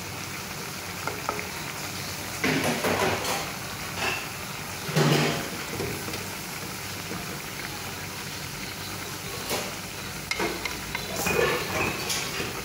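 Bitter gourd and egg sautéing in a stainless steel pan with a steady sizzle, stirred with a wooden spatula that scrapes the pan a few times, at about a third of the way in, halfway, and near the end.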